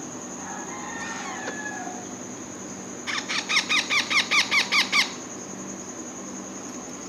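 Alexandrine parakeet chick giving a rapid run of about a dozen squawking begging calls, about six a second, for some two seconds in the second half, after a few faint calls near the start.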